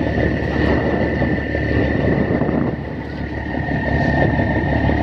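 Fishing boat's engine running steadily, with a constant high-pitched whine over its rumble; it eases slightly a little under three seconds in.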